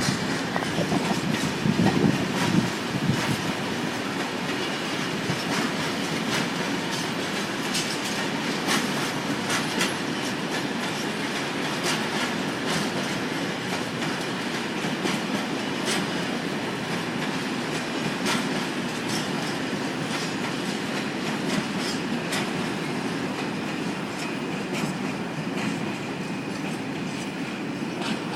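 A long freight train's wagons rolling slowly past, a steady rumble of wheels on the track broken by many irregular sharp clacks, with some wheel squeal.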